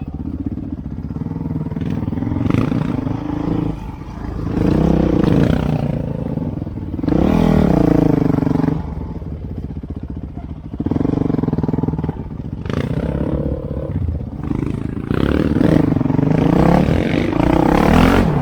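Trail motorcycle engine running and revving up and down several times, each surge of revs lasting a second or two.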